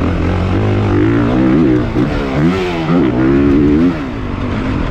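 450cc single-cylinder four-stroke motocross bike engine under hard riding, its revs rising and falling several times as the throttle is worked, with a brief drop near the end.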